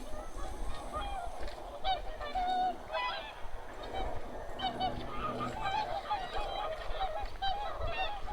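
A large flock of wild geese calling: many short honks overlap in a continuous chorus.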